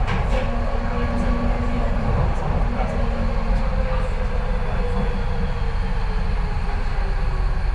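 Docklands Light Railway train running, heard from inside the carriage: a steady rumble of wheels on track with a motor whine that slowly falls in pitch over the last few seconds.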